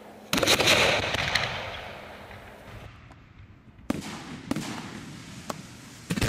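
Aerial firework shells bursting: a loud bang about a third of a second in that echoes away over about two seconds, then another bang about four seconds in followed by a few smaller cracks, and a further loud bang near the end.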